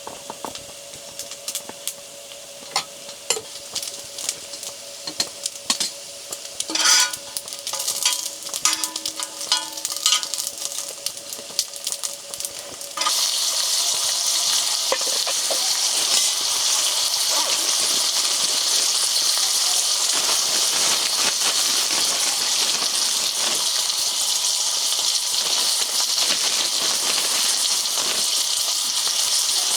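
Light clinks and taps of cooking utensils, then about halfway through a sudden sizzle starts as food hits a hot pan, and it keeps frying steadily.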